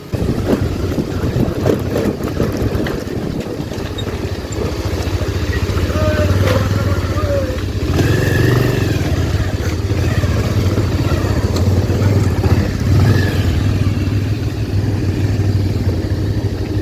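Motorcycle engine running as the bike is ridden over a rough track, with scattered knocks in the first few seconds; the engine note grows louder and steadier about halfway through.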